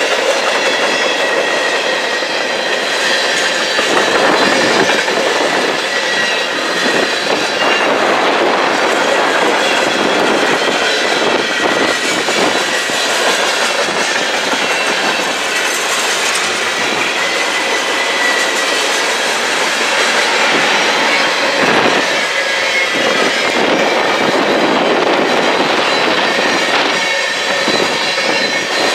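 A long freight train's cars rolling past, steel wheels clattering steadily over the rails, with a faint thin squeal from the wheels coming and going.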